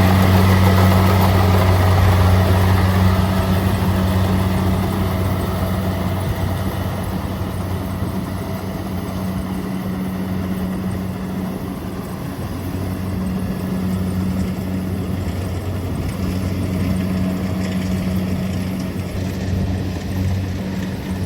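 Kubota DC-70 Plus combine harvester running with a steady, low engine hum; it gets quieter over the first dozen seconds, then louder again.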